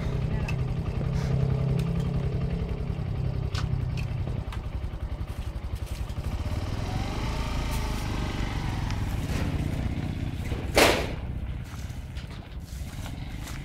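Small Suzuki motorcycle engine running steadily, then pulling away and growing fainter as the bike rides off. One loud sharp crack sounds near the end.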